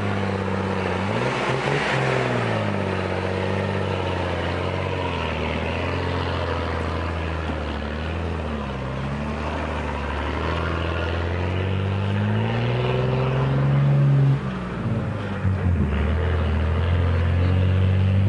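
Truck engine running and revving, its pitch falling and rising several times. It climbs to its highest point, drops suddenly, then picks up again.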